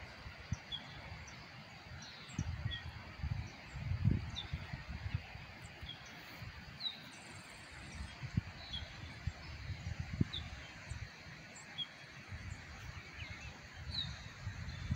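Small birds calling in a field: short, falling chirps repeated every second or so over a steady outdoor hiss, with irregular low thuds from the camera being carried through the grass.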